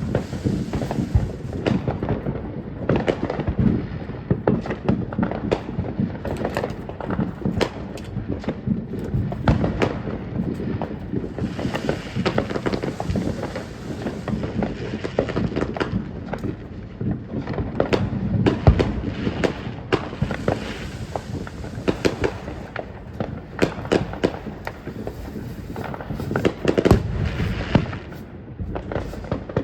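Consumer fireworks going off in a dense, irregular run of cracks and pops, with heavier bangs about two-thirds of the way through and again near the end.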